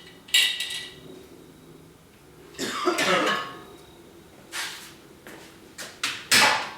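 Metal parts being handled: several short, sharp metallic clinks, with a longer scraping clatter about three seconds in.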